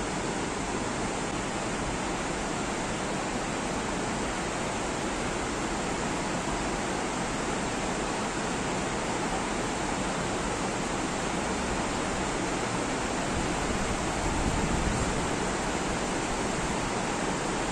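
Steady rain falling, an even hiss with no breaks, briefly a little louder about three quarters of the way through.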